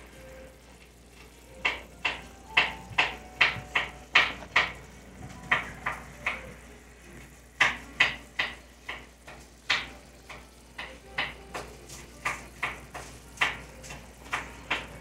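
Cubed steak and minced red onion sizzling in their own juices in a pan. Irregular sharp crackles and pops come a few to the second, with short lulls between runs.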